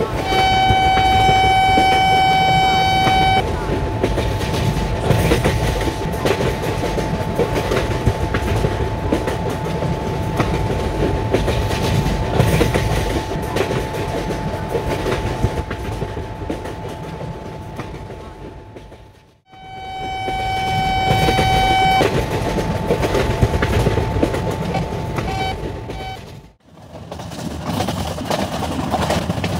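Electric locomotive horn sounding one steady note for about three seconds just after the start and again for about two seconds later on, over the rumble and wheel clatter of a train on the rails, with a steady thin whine underneath. The sound cuts out abruptly twice.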